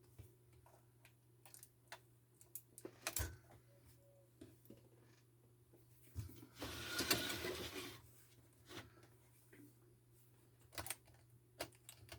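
Scattered small clicks and taps of hand-handling parts and tools, with a louder noisy scrape lasting about a second and a half past the middle, over a faint steady hum.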